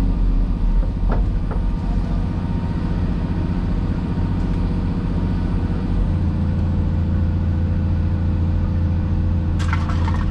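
Cat 336E excavator's diesel engine running steadily; its note changes about six seconds in.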